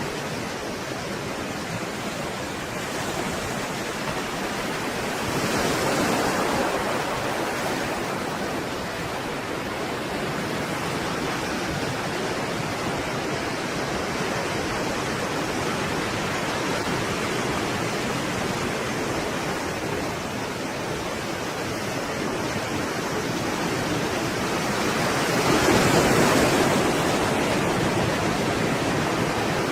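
Stormy sea surf: a steady wash of breaking waves, with two larger waves swelling louder about six seconds in and near the end.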